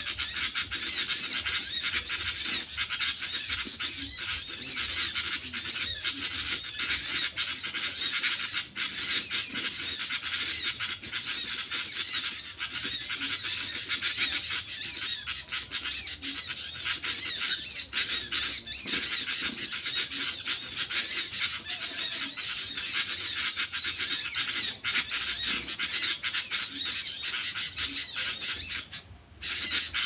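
Dense, high-pitched bird chirping: a rapid, unbroken run of short repeated notes that cuts out for a moment near the end.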